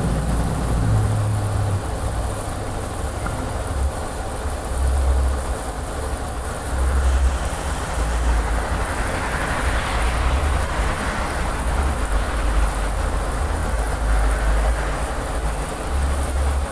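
Wind buffeting the microphone: an uneven low rumble that swells and drops with the gusts, over a steady hiss.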